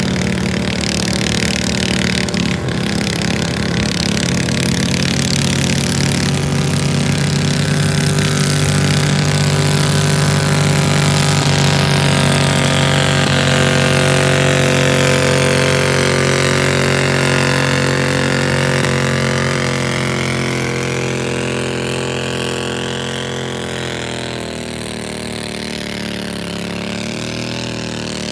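Garden tractor engine running steadily at high speed under load, with the sound easing somewhat in the last few seconds.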